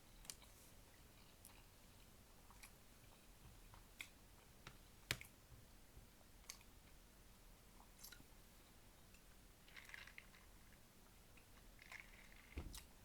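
Quiet close-up eating: a person chewing food, with scattered sharp clicks and soft mouth smacks every second or two, the loudest click about five seconds in.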